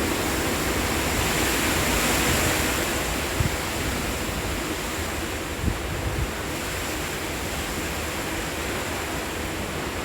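Gusty wind ahead of a storm with no rain, rushing steadily and buffeting the microphone with a few low thumps. It swells about two seconds in, then eases slightly.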